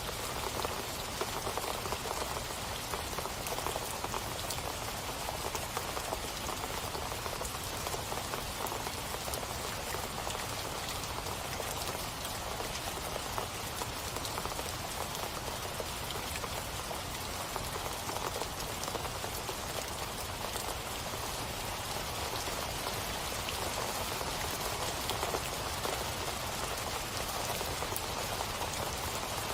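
Steady rain falling, many fine drops pattering on a surface, with no let-up or change.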